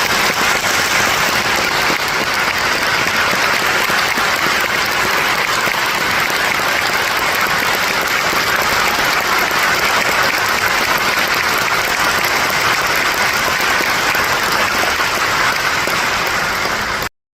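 Thunderous applause from a large concert-hall audience: a dense, steady wash of clapping that cuts off abruptly near the end.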